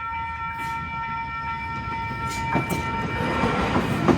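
A passenger train approaching a level crossing. A steady multi-note tone, likely its horn, holds until about three seconds in, while the rumble and wheel clatter of the train grow louder from about two and a half seconds in as it reaches the crossing.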